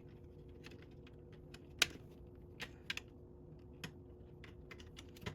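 Plastic Lego bricks clicking and tapping as pieces are handled and pressed into place: a few sharp, separate clicks, the loudest about two seconds in, over a faint steady hum.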